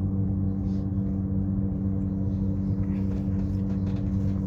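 Passenger train heard from inside the carriage: a steady low rumble with a constant hum.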